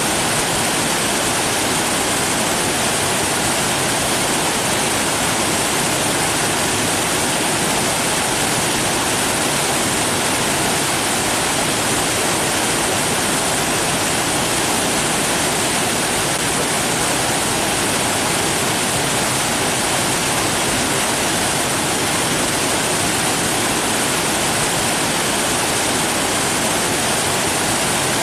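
Rushing water, a steady, unchanging hiss-like roar with no breaks or distinct events.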